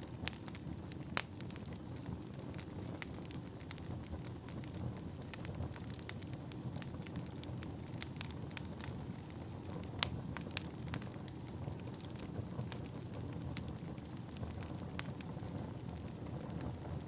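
Wood fire burning in a fireplace: a steady low rumble of flames with irregular sharp crackles and pops of burning logs, one louder pop about ten seconds in.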